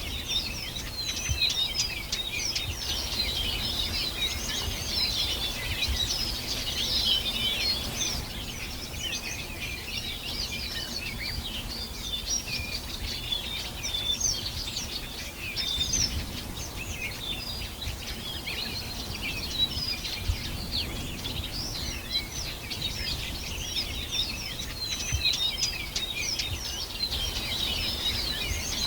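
Many birds singing together in a dense, continuous chorus of overlapping high chirps and trills, over a low steady rumble of background noise.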